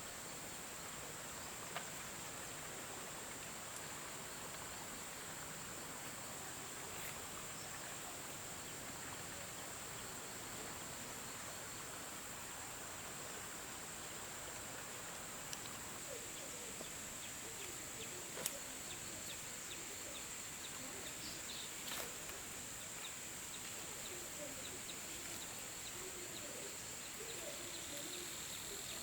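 Forest insects droning in one steady high-pitched note over a low hiss of outdoor ambience, with a few sharp clicks scattered through.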